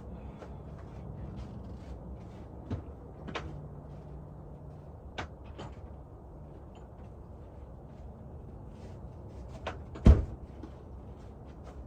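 Handling noises: scattered light clicks and knocks, and one loud thump about ten seconds in, over a steady low rumble.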